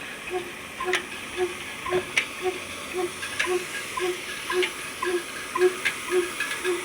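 Old diesel engine running slowly and evenly, with a steady exhaust chuff about twice a second and occasional sharp clicks.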